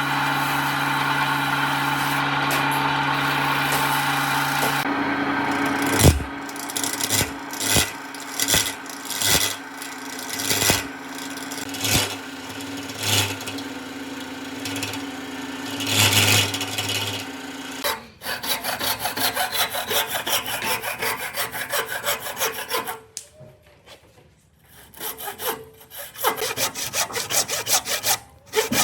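A motor-driven tool runs steadily for about five seconds and stops. Wood is then worked by hand, first with irregular strokes and knocks, then with fast, even back-and-forth strokes that pause briefly near the end.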